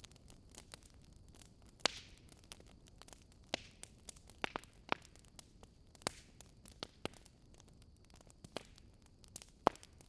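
Wood fire crackling in a fireplace: irregular sharp pops and snaps over a faint steady hiss. The loudest pops come about two seconds in and near the end.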